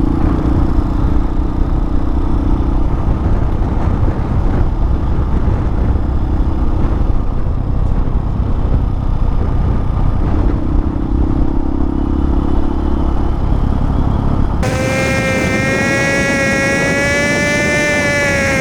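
Hawk 250 dual-sport motorcycle running at cruising speed, its engine drone mostly buried under heavy wind rumble on the microphone. About fifteen seconds in, the wind noise drops away abruptly and a steady, high engine whine with clear overtones stands out.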